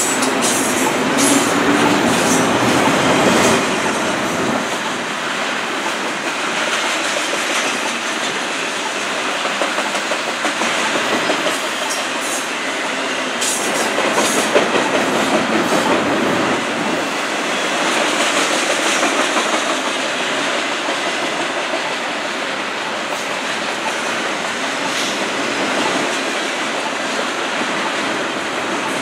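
Double-stack intermodal freight train's container well cars rolling past at speed: a steady rumble of steel wheels on rail with clacks over the joints, and a run of sharper clacks about halfway through.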